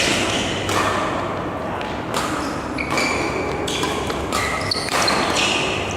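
Badminton rally: rackets striking the shuttlecock about once every half second to a second, with short high squeaks of shoes on the court floor between hits, echoing in a large hall.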